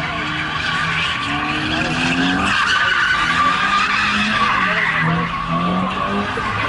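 A car engine revving up and down while its tyres spin and screech against the pavement.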